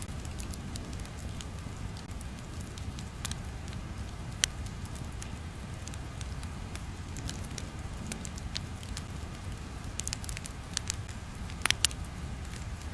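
Steady crackling ambience: scattered sharp pops and clicks over a constant low rumble, with a small flurry of louder pops near the end.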